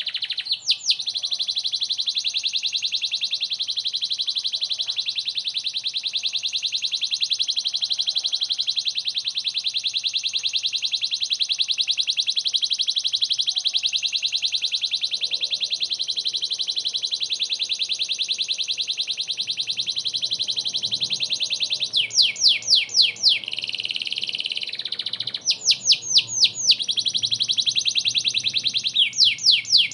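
Domestic canary singing in full, continuous song. It holds a long, very fast rolling trill for about twenty seconds, then breaks into three short runs of loud falling notes near the end.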